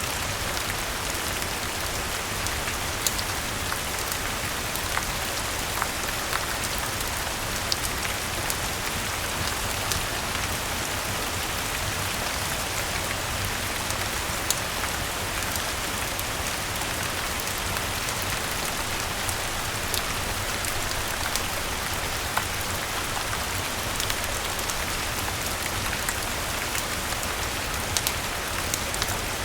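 Steady rain falling, with scattered sharp pops every second or two from a crackling wood fire.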